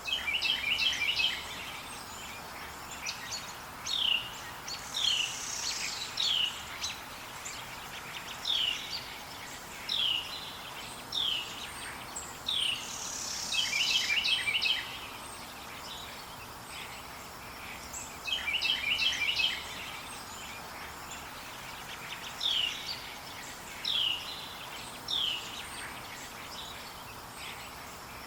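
Forest birds singing: a chattering phrase recurs every several seconds, and between its repeats come runs of single sharp down-slurred notes about a second apart. A steady hiss of background noise lies underneath.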